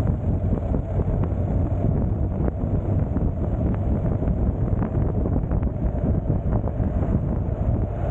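Wind buffeting the microphone of a camera on a moving motorcycle, a steady low rumble with the motorcycle's engine and road noise mixed in.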